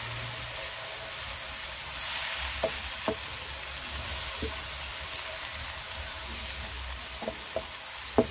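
Onion, tomato and spice masala sizzling steadily as it fries in ghee in a nonstick frying pan, stirred with a wooden spatula. Several light knocks of the spatula against the pan can be heard, and the sharpest comes near the end.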